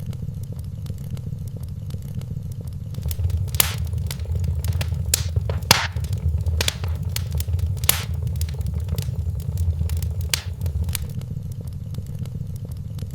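Wood fire crackling in a fireplace: scattered sharp pops and snaps over a steady low rumble of the burning fire. The pops come thickest and loudest between about three and eleven seconds in.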